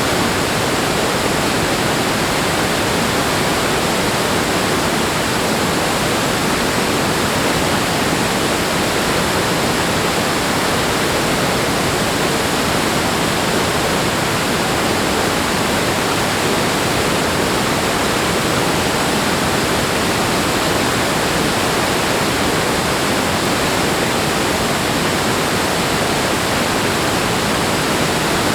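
Rushing water making a steady, even rush of noise, with no surges or lulls.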